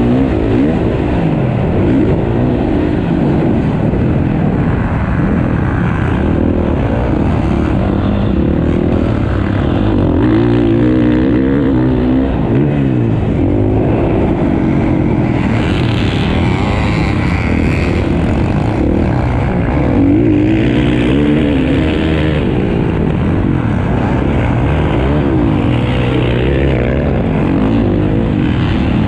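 Several motocross bikes racing, their engines revving up and down as they work the track, with overlapping rising and falling engine notes.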